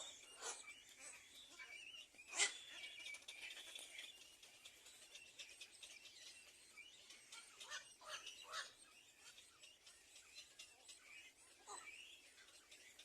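Faint, scattered bird chirps, with one sharp click about two and a half seconds in.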